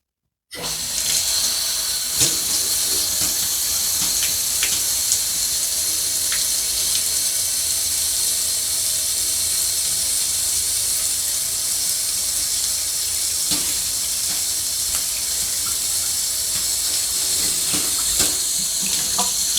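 Tap water running steadily into a sink while a plastic shower filter is rinsed under the stream, with a few faint knocks of it being handled. The water starts about half a second in.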